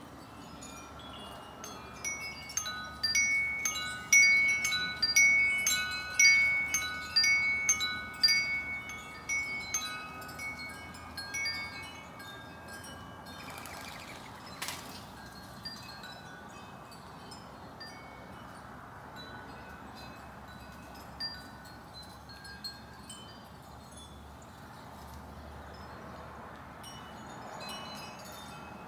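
Wind chimes ringing, many overlapping struck tones for about ten seconds, then only occasional faint strikes.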